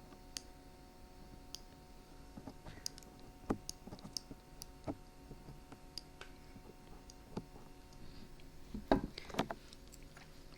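Dried glue being peeled off a binaural microphone's ear: faint, scattered little crackles and clicks, with a louder cluster of crackling about nine seconds in.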